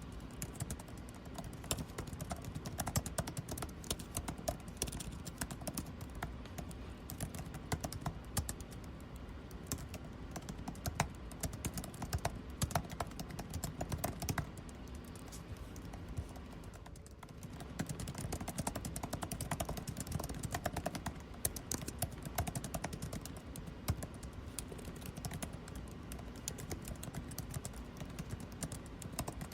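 Fast, irregular typing on a computer keyboard, pausing briefly a little past halfway, over a steady low air-conditioning hum.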